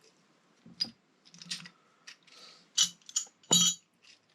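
Small metal engine parts being handled and set down: a handful of irregular, sharp metallic clinks with a brief ring, the loudest two near the end.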